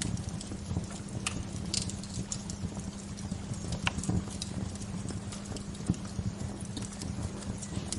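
Wood fire crackling, with irregular sharp pops and snaps scattered throughout over a low, steady rumbling background.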